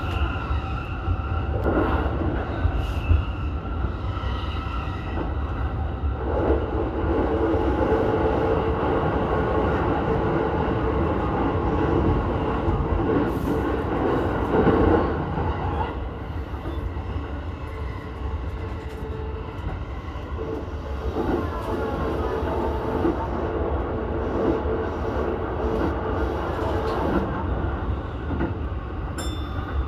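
Keihin-Tohoku Line E233-series electric train running along the line, heard from inside the leading car: a steady rumble of wheels on rail with a few rail-joint clicks early on and a humming tone that comes and goes twice.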